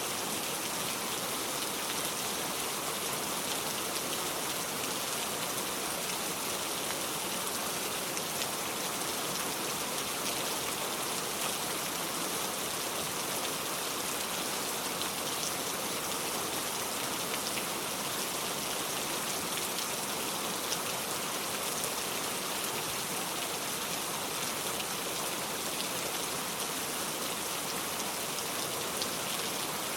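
Steady rainfall, an even hiss of rain with scattered drops pattering on a surface.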